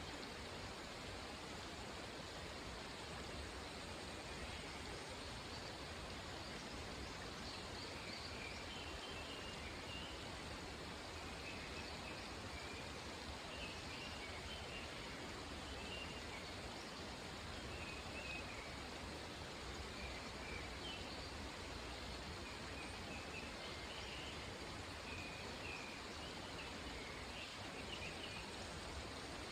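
Steady rushing of a mountain stream, with small birds giving short high chirps over it again and again from about a quarter of the way in.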